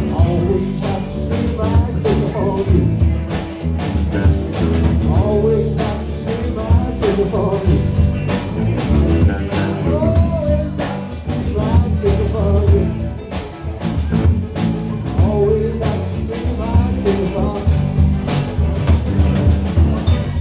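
Live band playing a song: a drum kit keeps a steady beat under a full low end, with a wavering lead melody on top.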